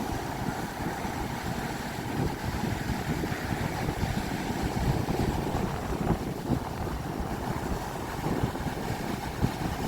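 Gusty wind buffeting the microphone with a steady low rumble, and ocean surf washing behind it.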